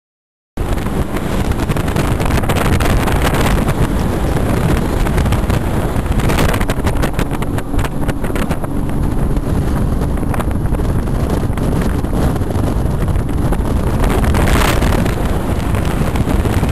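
Speedboat running under way, a loud steady noise heavy in the low end, with strong wind buffeting on the microphone. It cuts in suddenly about half a second in.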